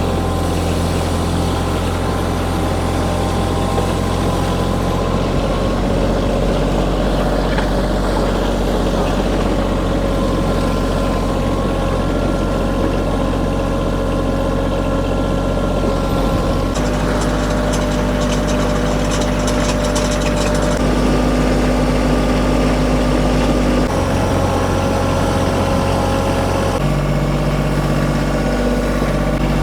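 Kioti tractor's diesel engine running steadily under load while it pulls a railroad-tie drag along a gravel driveway. Its pitch shifts a few times.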